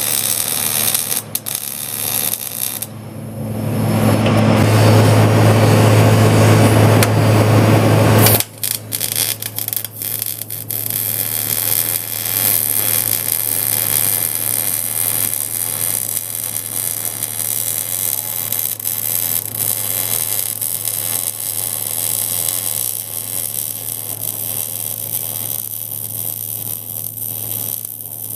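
Electrical buzzing hum with dense static hiss. About three seconds in it swells into a loud, harsh buzz that cuts off abruptly after about five seconds, then drops back to a steady hum and static.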